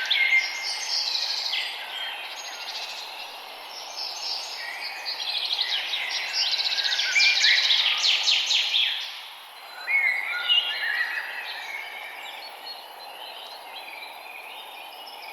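A chorus of several songbirds singing at once, with rapid trills, chirps and short whistles overlapping over a steady hiss of background noise.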